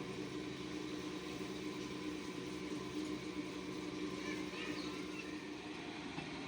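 Steady low mechanical hum, even throughout, with a few faint bird chirps in the second half.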